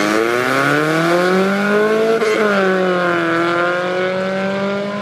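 Off-road 4x4 truck engine revving under load, its pitch climbing for about two seconds, dropping briefly, then holding steady.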